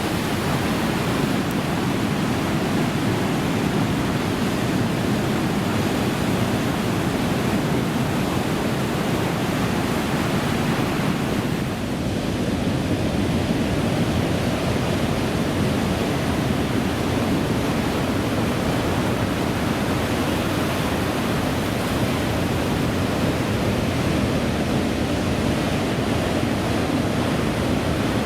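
Steady rushing noise of ocean surf and wind, even and unbroken, with a brief slight dip about twelve seconds in.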